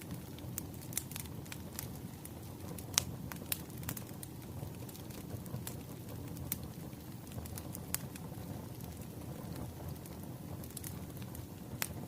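Wood fire burning: a steady low rumble of flames with scattered sharp pops and crackles of burning logs, a louder pop about three seconds in and another near the end.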